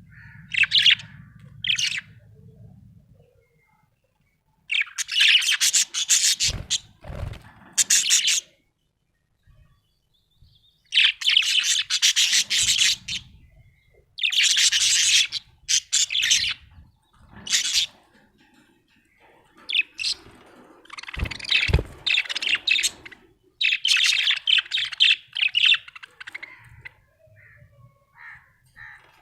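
Budgerigar chirping and warbling in bursts of a few seconds at a time, with short quiet gaps between them. A few soft low knocks come in among the calls.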